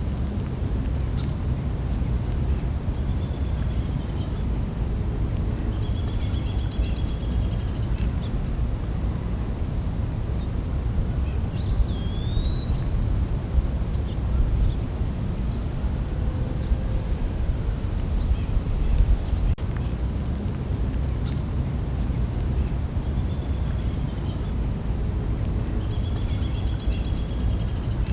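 Night forest ambience: a steady high-pitched insect drone with a cricket chirping in quick regular pulses, over a constant low rumble. A bird gives a few short calls, in pairs a few seconds in and again near the end, with a single rising note in the middle.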